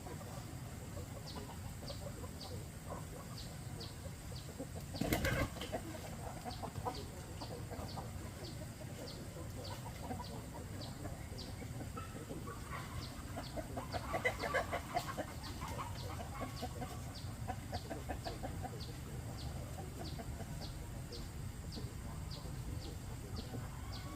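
Chickens clucking, with a sudden flurry of wing flapping about five seconds in and a louder burst of squawking around two-thirds of the way through. A faint high chirp repeats a little under twice a second throughout.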